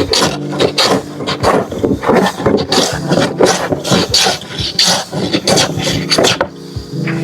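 A hand tool scraping across wood in quick, even strokes, two to three a second; the strokes stop about six and a half seconds in. Background music comes in near the end.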